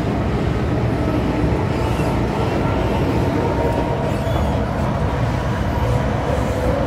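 MTR M-Train metro train running through a tunnel: a steady, loud rumble of wheels on the rails with faint steady whines from the traction equipment.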